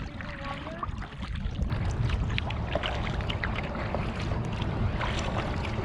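Wind buffeting the microphone as a low rumble, over water splashing and dripping from kayak paddle strokes.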